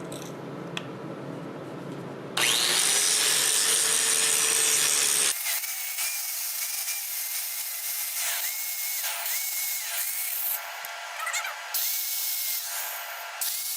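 Power grinder grinding out old braze on a metal engine part. It starts with about three seconds of loud, steady grinding, then lighter passes with a high whine that comes and goes every second or so.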